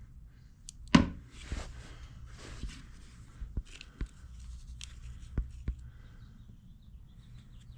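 Handling noise of parts being fitted to a machine: a sharp knock about a second in, then a few lighter clicks and taps over a low steady hum.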